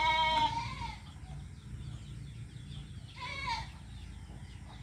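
A goat bleating twice: a wavering call of about a second at the start, then a shorter one about three seconds in.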